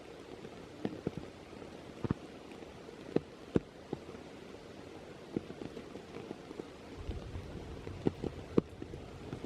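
Steady rain with irregular sharp taps of heavy drops striking close by. A low rumble comes in near the end.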